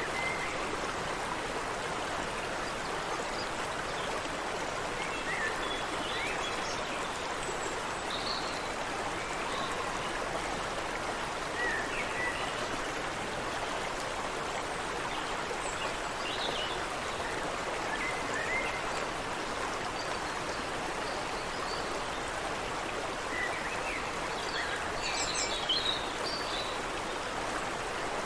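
Water running steadily over rocks in a stream, with scattered short bird chirps above it, a cluster of them near the end.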